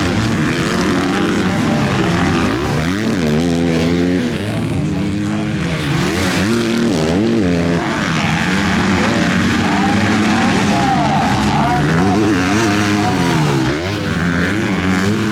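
Several MX2 motocross bikes racing, their engines revving up and down again and again as riders open and close the throttle and shift through the gears.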